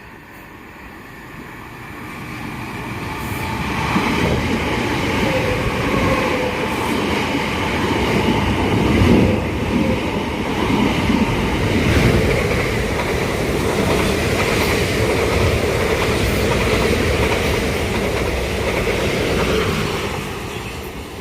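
A train running through the station without stopping, growing louder over the first few seconds, passing close with a steady rumbling clatter and a faint whine for about fifteen seconds, then dropping away near the end.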